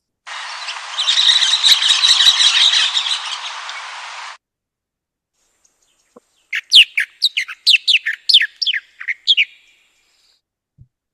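Recorded Cuban bird calls. First a chattering call over a hiss of recording noise, cut off suddenly about four seconds in. Then, after a pause, a run of about a dozen quick, sharply descending whistled notes.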